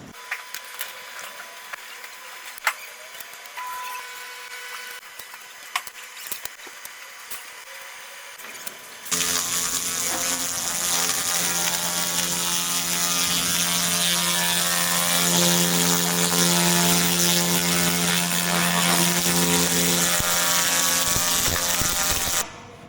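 Handheld fiber laser machine firing: a loud, steady buzzing hiss that starts abruptly about nine seconds in and cuts off just before the end. Before it there are scattered sharp clicks over a faint steady tone.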